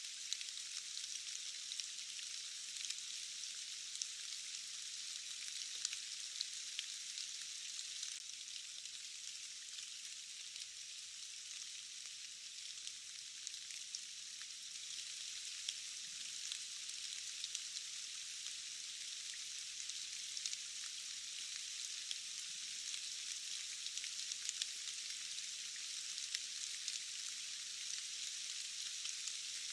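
Steady rain falling, a thin even hiss with many small drop ticks scattered through it and almost no low rumble.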